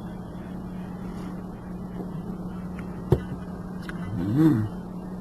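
Steady low background hum, with a sharp click about three seconds in and a short hummed "mm" from a man's voice near the end.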